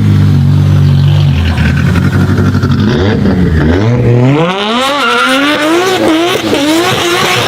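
High-performance sports car engine and exhaust running loud at low revs, then accelerating hard. The pitch climbs, drops and climbs again through several quick gear changes.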